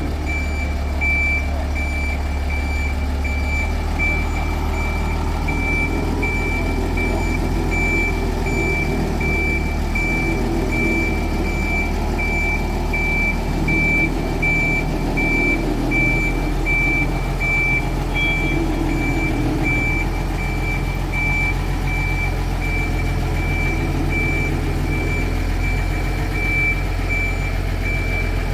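Reversing warning beeper sounding a steady run of evenly spaced high beeps over a low, steady vehicle rumble, as a vehicle moves backwards while shunting in the depot.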